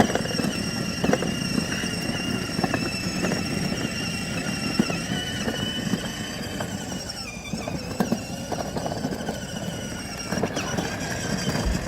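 Children's battery-powered ride-on toy truck driving along: a steady high whine from its electric drive motors over the rumble of its wheels rolling. The whine wavers and dips briefly about seven and a half seconds in.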